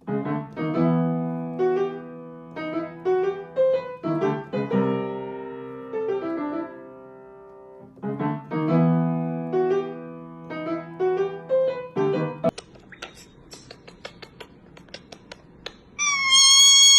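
Solo piano melody for about twelve seconds, then faint scattered clicks, and near the end a loud, shrill, wavering parrot screech.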